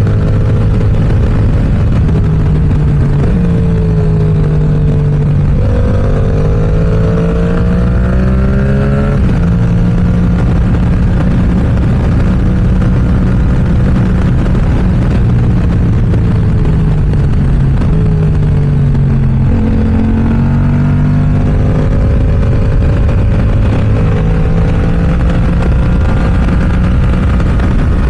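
Yamaha R7's 689 cc parallel-twin engine through an M4 aftermarket exhaust, riding hard. The engine note climbs through the revs and drops at each gear change, twice in the first ten seconds. It holds steady for a stretch, dips about two-thirds of the way through, then pulls up again.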